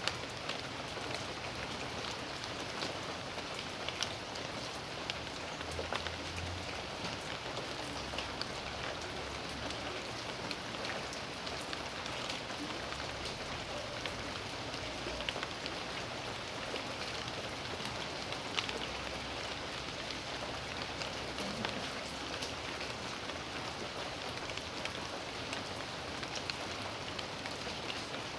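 Steady rain falling on a backyard, a continuous hiss with many individual drops tapping close by.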